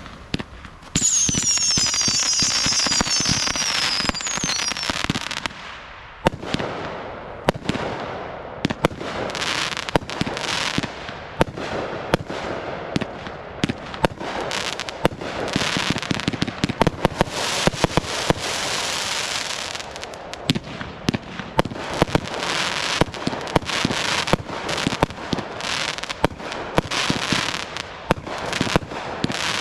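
Fireworks going off. A cluster of whistles falls in pitch from about one to five seconds in, then dense rapid pops and crackling continue through the rest.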